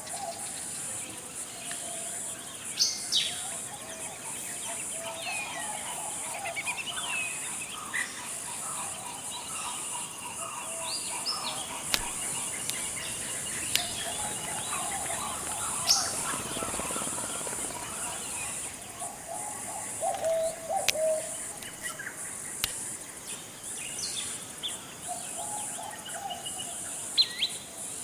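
Forest ambience: several birds calling and chirping over a steady high insect drone, with a few sharp high notes standing out over lower warbling calls.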